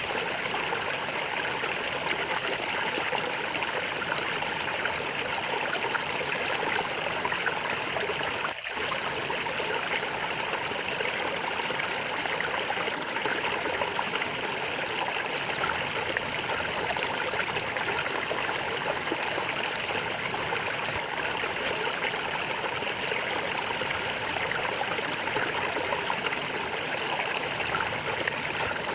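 Water in a stream gurgling and trickling, a steady, even rush with one brief dip about a third of the way in.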